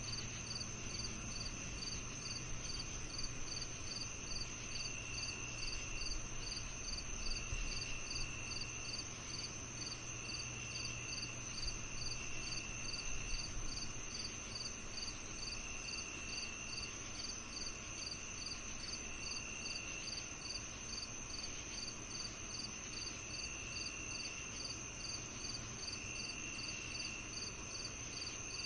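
Chorus of crickets and other insects calling together: one steady high trill, a regular chirp repeating about one and a half times a second, and a lower trill coming in bouts of a second or two every few seconds.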